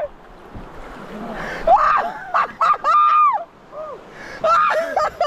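A man shouting and yelling excited exclamations twice, over the rush of river rapids.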